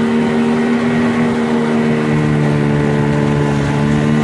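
Small 8-horsepower outboard motor running steadily at an even pitch, pushing the boat against a strong current.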